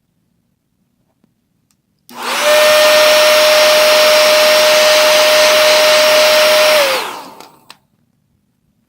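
Remington 1875-watt hair dryer switched on about two seconds in, blowing steadily with a constant whine for about five seconds, then switched off, its pitch dropping as the fan spins down. It is the heat source for warming the iPad's front-camera frame so it can be removed.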